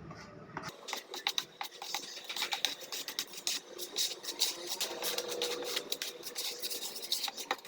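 Rapid, irregular scratching and rubbing sounds with many small clicks, starting abruptly about a second in.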